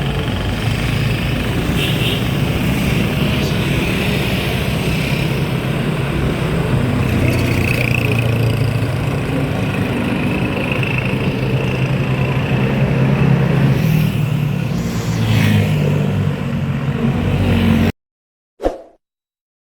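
A vehicle engine running steadily under road and wind noise while riding. It cuts off abruptly near the end, followed by a brief click.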